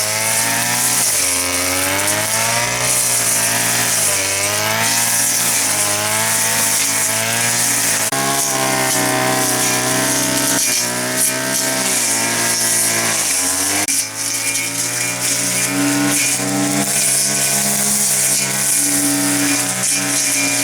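Chainsaw running and cutting wood, its pitch rising and falling again and again as the engine takes and sheds load.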